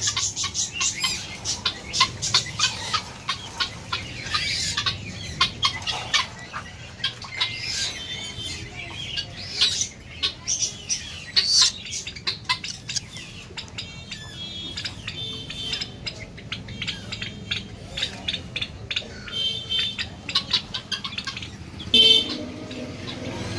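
Many caged birds chirping and squawking together, a dense run of overlapping quick high chirps, with one louder squawk near the end.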